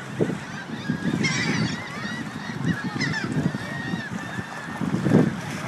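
A flock of waterbirds calling, with many short overlapping calls starting about a second in, over low wind rumble on the microphone.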